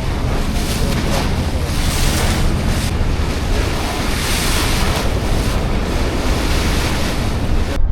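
Wind buffeting the camera's microphone over the rush of sea water past a boat under way, swelling in gusts, then breaking off abruptly near the end.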